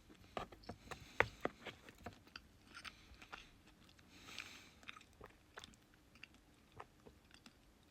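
A person biting and chewing a dry square sausage (Lorne sausage), close to the microphone: faint, irregular mouth clicks and smacks, the loudest about a second in.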